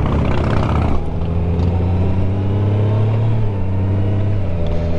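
Motorcycle engine running under way, its revs climbing steadily for a couple of seconds and then dropping about three and a half seconds in before holding steady.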